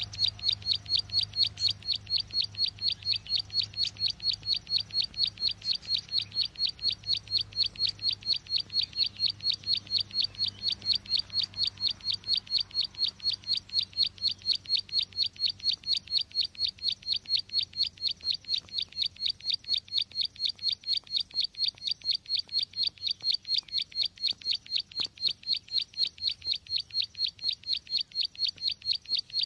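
Lure call of the small bird known locally as ciwa, cici glaga or ciblek sawah: one sharp, high chip note repeated steadily, about three to four times a second, without a break.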